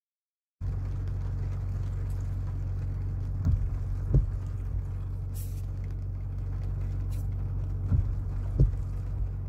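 Steady low engine drone with a few dull thumps, twice near the middle and twice near the end.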